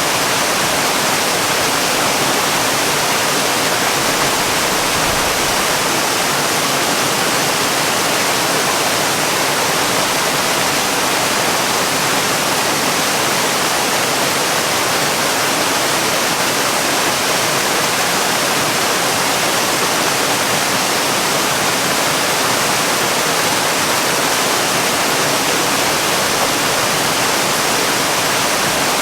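Waterfall rushing steadily: an even, unbroken hiss of falling water with no separate splashes.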